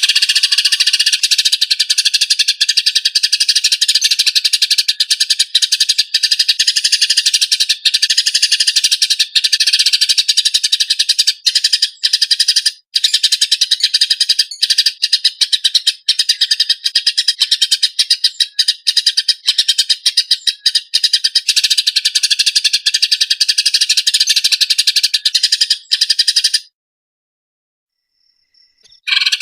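Eurasian tree sparrows giving harsh, rapid, tightly packed fighting calls: an unbroken stream of chirps. It cuts off suddenly about 27 seconds in and starts again just before the end.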